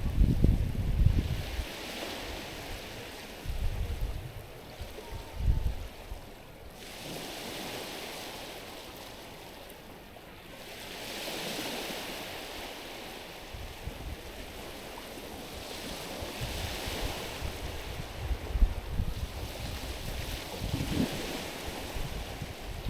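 Small ocean waves washing onto a stony shore, the hiss of the water swelling and fading about every five seconds. Low gusts of wind buffet the microphone now and then.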